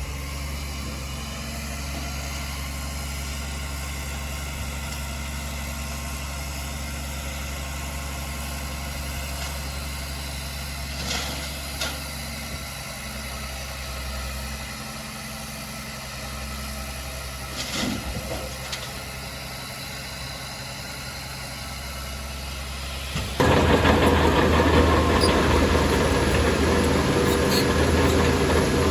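Heavy earthmoving machine's diesel engine idling steadily, with a few short metallic clanks. About 23 seconds in it jumps suddenly to a much louder, rougher roar that holds to the end.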